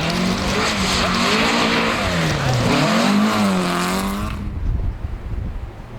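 Historic rally car's engine revving hard past at close range, its pitch falling and rising with throttle and gear changes. About four and a half seconds in the sound turns suddenly dull and quieter, leaving a low rumble.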